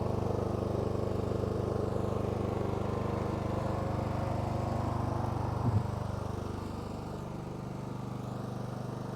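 Riding lawn mower's engine idling steadily, a little quieter in the last few seconds.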